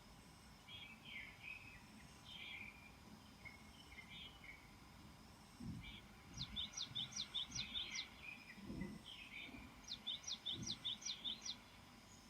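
Small birds chirping in short calls, with two quick runs of about six sharp, high notes in the second half, over faint outdoor background noise and a few dull low thumps.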